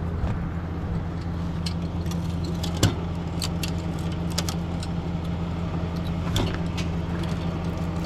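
Tow truck engine idling steadily, with scattered light clicks and one sharper knock about three seconds in.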